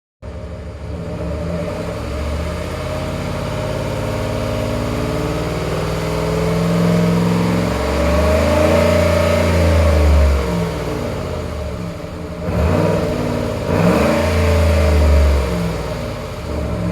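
Ford Explorer Sport Trac's 4.6 V8 through an aftermarket active exhaust, running near idle and revved twice: a long rev that rises and drops back about two-thirds of the way through, then a second rev near the end.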